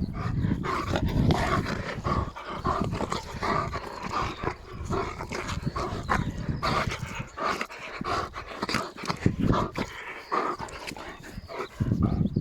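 East European Shepherd dog panting and growling at play with a toy, in irregular uneven bursts.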